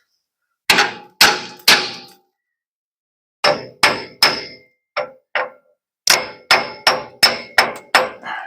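Hammer blows on the metal of a van's rear suspension, knocking the lift block and axle into line: three quick strikes, a pause, four more, then a run of seven, each with a short metallic ring.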